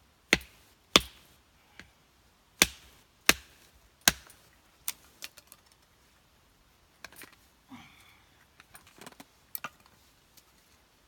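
Firewood being split with a cheap 100-yen-shop knife: five loud, sharp wooden knocks in the first four seconds, then lighter taps and clicks.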